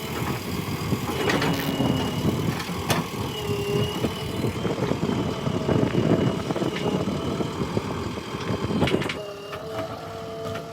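JCB 3DX backhoe loader's diesel engine working hard, with a few sharp knocks and a thin high whine over it. About nine seconds in the working noise drops away, leaving only steady pitched tones.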